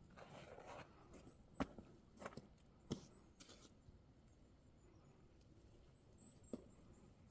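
Near silence: a few soft clicks, the loudest about a second and a half in and near three seconds, and faint, very high squeaks twice.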